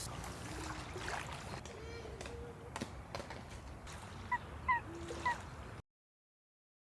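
Faint outdoor ambience with a few short bird calls, ending in three brief calls in quick succession. The sound then cuts off to silence about a second before the end.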